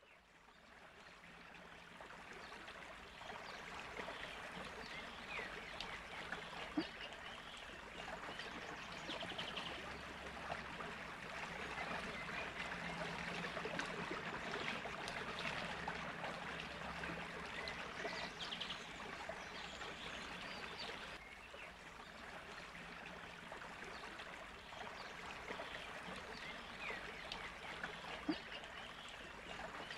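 Steady flowing-water sound, a rushing haze that fades in over the first few seconds.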